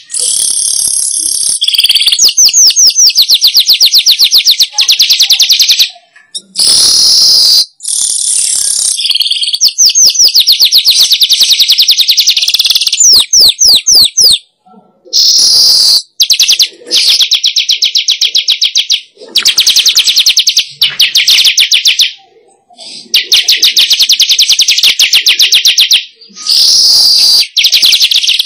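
Manyar (weaver bird) song played as a lure call: loud, rapid chattering phrases of fast repeated notes, a few seconds each, broken by short pauses.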